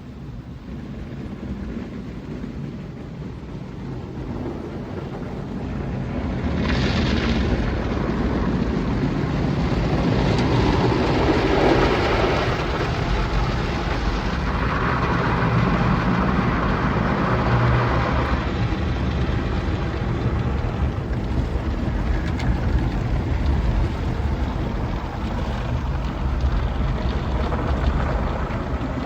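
Automatic tunnel car wash machinery running: a steady rumble mixed with hissing spray and rushing air. It grows louder about six seconds in.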